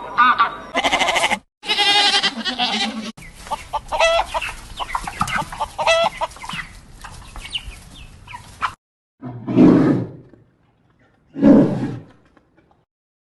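Farmyard animal calls, goats bleating among them: a run of separate pitched calls, a busy stretch of many short calls, then two lower single calls near the end.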